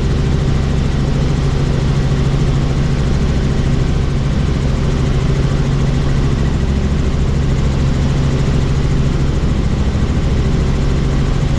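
Helicopter in flight with the doors off: a steady, loud drone of rotor and engine with a strong low hum, over rushing air noise.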